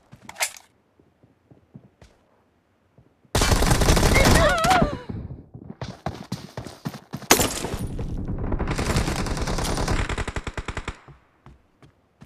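Video-game automatic gunfire: a short rapid burst a few seconds in, a few scattered shots, then a longer sustained burst that cuts off about a second before the end.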